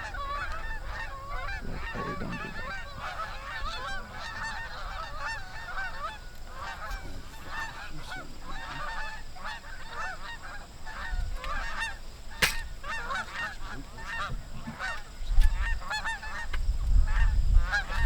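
A flock of Canada geese honking continuously, many calls overlapping. A single sharp click about twelve seconds in, and low rumbling near the end.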